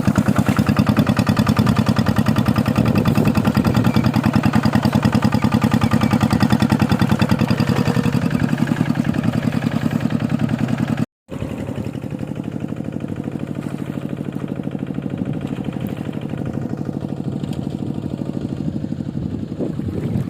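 Tractor engine running steadily with an even, rapid pulse. About halfway through the sound cuts out for a moment and resumes slightly duller.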